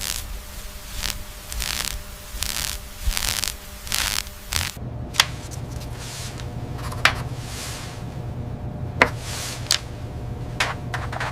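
Rhythmic rubbing or scrubbing strokes, about two a second, stop suddenly about five seconds in. After that comes a steady low hum with a few sharp clicks.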